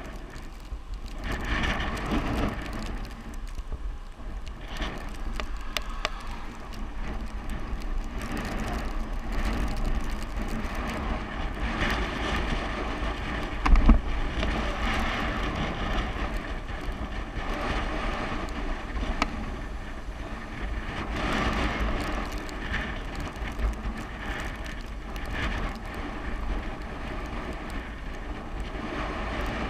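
Wind rushing over the microphone and bicycle tyres running on the road during a descent, with a sharp thump about halfway through.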